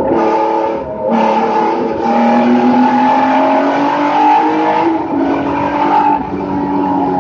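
Race car engine heard from inside the cockpit, pulling hard under throttle with its pitch climbing. Twice it dips and drops in pitch, about a second in and again about five seconds in, as the driver shifts up.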